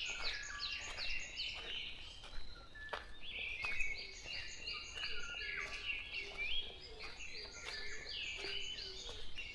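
Morning chorus of forest songbirds: many short whistled and chirping notes from several birds overlapping, with a few faint lower notes among them.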